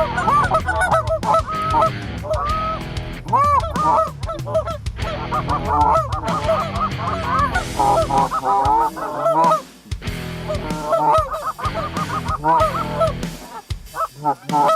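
Canada geese honking, many short calls overlapping in a near-continuous chorus, with brief lulls about two-thirds of the way through and near the end.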